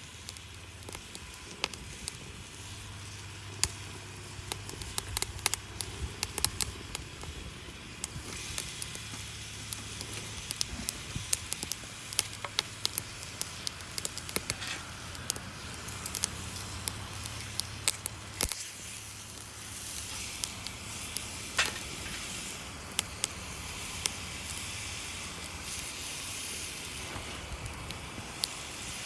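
Wood fire crackling, with frequent sharp pops over a steady hiss. The hiss grows stronger about two-thirds of the way through. A low steady rumble runs underneath.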